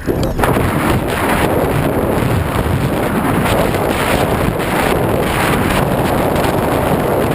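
Steady, loud wind rush over the microphone of a GoPro mounted on a Twin Star RC model plane in flight.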